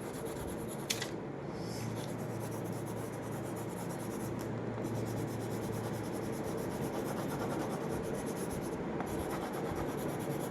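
Colouring in on paper: a dry colouring stick rubbed steadily back and forth to fill an area with colour. A single sharp click comes about a second in.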